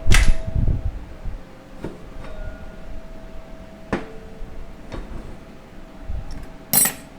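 Metal transmission parts being handled during teardown of a 4L60E: a knock at the start, a few light ticks, and a ringing metal clink just before the end as the parts are set down.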